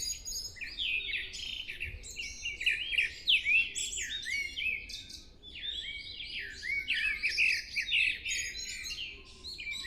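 Pre-dawn chorus of many songbirds singing and calling at once: a dense, overlapping mix of quick chirps and twittering, with no pause.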